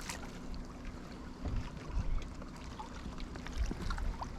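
Water lapping and splashing against a small plastic boat's hull, over a steady low wind rumble, with a few soft knocks.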